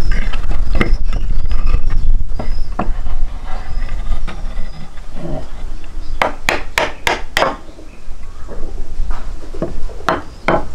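A quick run of five sharp knocks about six seconds in, then two more near the end, over a steady low rumble.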